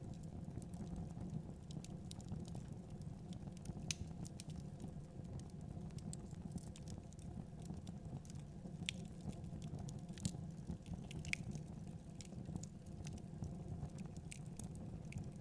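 Wood fire crackling in a fireplace: scattered sharp snaps and pops at irregular moments over a steady low rumble.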